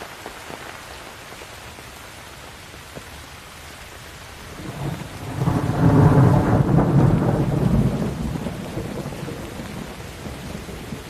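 Steady rain falling, with a rolling thunderclap that builds about halfway through, peaks for a couple of seconds and rumbles away near the end.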